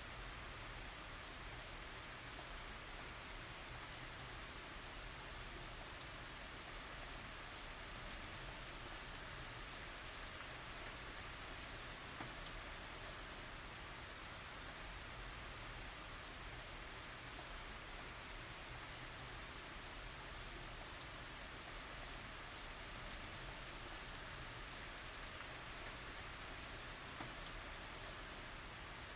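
Steady tropical rain falling, an even hiss with scattered faint drop ticks and a low rumble underneath.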